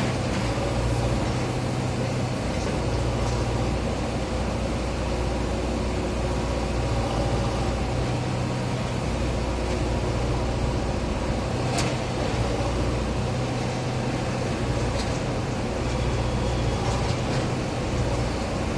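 JCB earthmover's diesel engine running steadily at a construction dig, its low drone rising and easing every few seconds as the machine works. A few short sharp clicks about halfway through and near the end.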